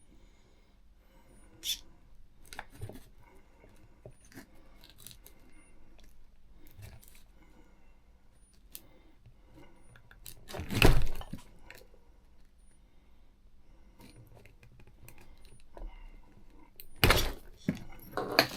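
Small hand tools and RC truck parts being handled on a workbench while a wheel hub is worked at with a flat-blade screwdriver: scattered light clicks and rattles, with two louder clatters about eleven and seventeen seconds in.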